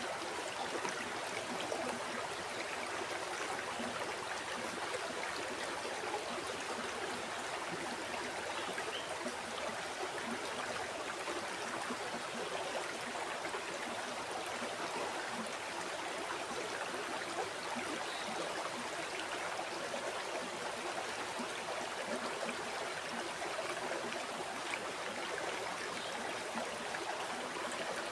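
A river running over rocks, with steady rushing and gurgling water that does not change in level.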